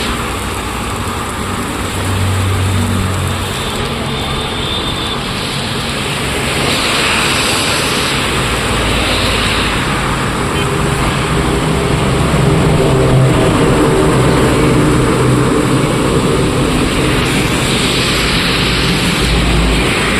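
Road traffic: engines of passing vehicles over a steady wash of road noise.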